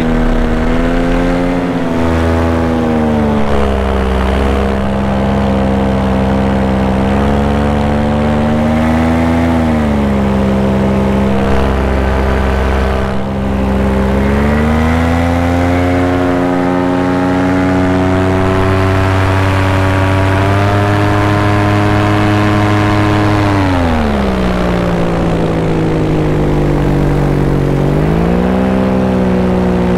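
Paramotor engine running in flight, its pitch dropping and rising several times as the throttle is eased back and opened again.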